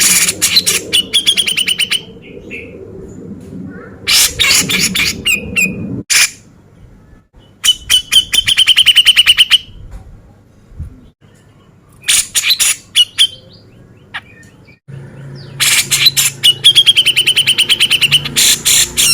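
Grey-cheeked bulbul (cucak jenggot) calling loudly in five bursts of fast, harsh, rattling notes, each a second or two long, with short pauses between them.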